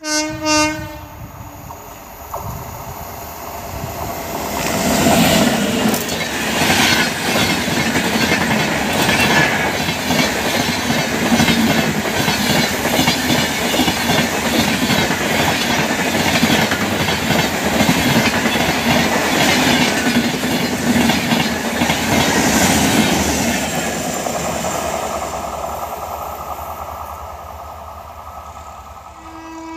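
Electric-hauled express train with LHB passenger coaches: a short horn blast at the start, then the train approaching and passing close at speed, wheels clattering over the rail joints in a fast steady rhythm, fading away as the last coach recedes. A second horn starts right at the end.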